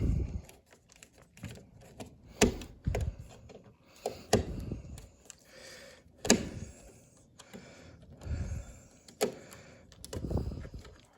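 Scattered sharp clicks and knocks with several dull thuds at irregular intervals: hands and tools handling small parts.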